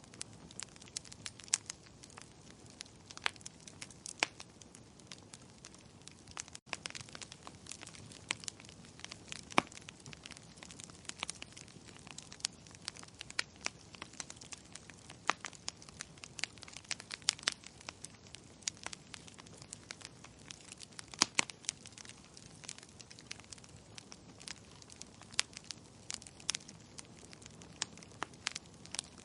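Wood fire crackling in a fireplace: irregular sharp pops and snaps of varying loudness over a steady low hiss of burning.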